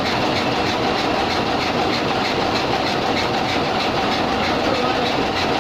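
Cummins diesel engine running steadily, with a fast, even clatter.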